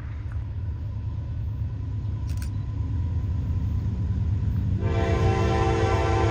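Approaching train rumbling low and growing steadily louder. About five seconds in, the locomotive's air horn sounds a chord of several notes for about two seconds.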